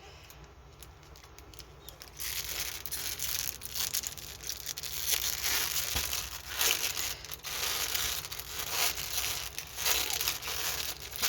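Plastic packaging crinkling and rustling as it is handled, starting about two seconds in and continuing with sharper crackles.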